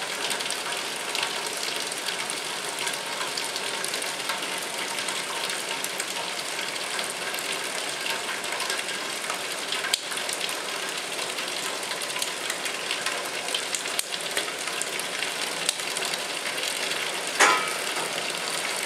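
Maple sap boiling hard in the pans of a sugar-house evaporator, a steady sizzling hiss, with one short sharp clatter near the end.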